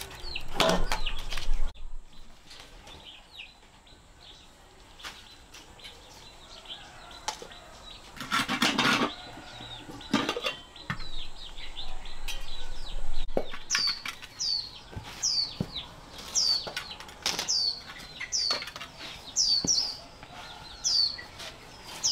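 A bird calling over and over in short, high, falling chirps, about one and a half a second, starting a little past the middle. Earlier come a few brief scuffing or clattering noises.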